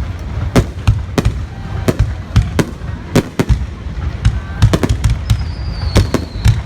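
Fireworks going off: quick, irregular bangs, several a second, over a continuous low rumble, with a thin, slightly falling whistle about five seconds in.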